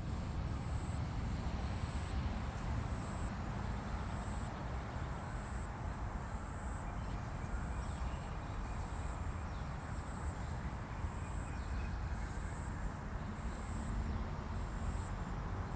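Insects calling: a continuous high-pitched drone, with a second insect chirping just below it in even pulses about once a second, over a low rumbling background.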